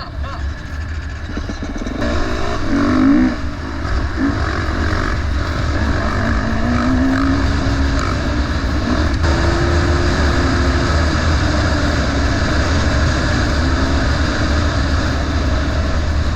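KTM four-stroke enduro dirt bike riding along a dirt track, the engine revving up through several pulls, with the pitch climbing about two to three seconds in and again a few seconds later, then running at steadier revs.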